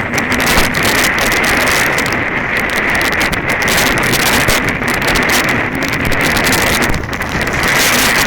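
Strong wind buffeting the microphone: a loud, continuous rushing that flutters with the gusts.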